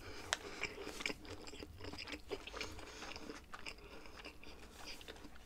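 A person chewing food close to the microphone: faint, irregular mouth clicks and small crunches.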